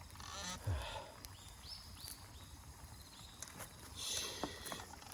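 A bird calling in a run of about six short, arched chirping notes over a couple of seconds, with scattered faint clicks and a soft thump.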